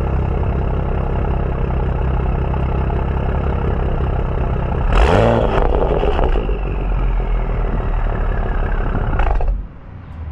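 BMW F30 335i's N55 turbocharged straight-six running steadily through a catless downpipe and M Performance exhaust, with a quick rev about halfway through. The sound drops off sharply near the end.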